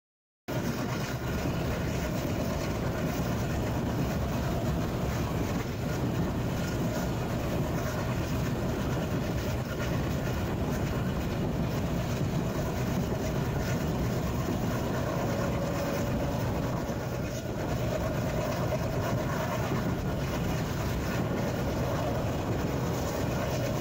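Passenger express train running on the rails, heard from on board: a steady rumble of wheels and coaches in motion that starts abruptly about half a second in.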